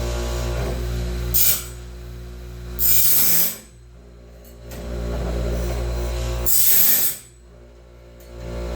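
Homemade motor-driven bandsaw band sharpener working through its cycle. A steady motor hum is broken by a short hiss of grinding about every three and a half seconds, and each hiss is followed by a quieter lull.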